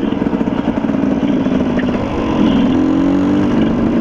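Dirt bike engine running while riding a trail, choppy at first, then settling into a steadier note with the revs rising slightly about two seconds in.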